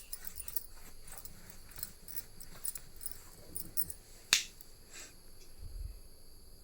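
Irregular light clicks and ticks of sewing tools and cloth being handled, with one sharp, loud click about four seconds in.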